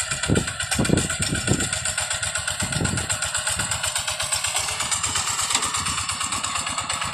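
Tractor engine running steadily under load while ploughing a wet rice paddy, with a fast, even firing beat and a few stronger low pulses in the first three seconds.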